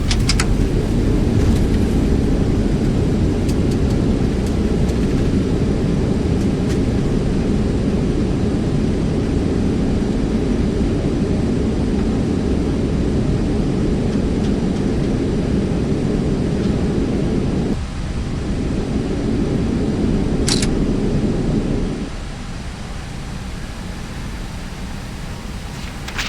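Airbus A321neo touching down and rolling out on the runway: a loud, steady low rumble of wheels and engines that dips briefly about eighteen seconds in, then falls off sharply about four seconds later as the aircraft slows. A few sharp clicks come at touchdown and one more near the end.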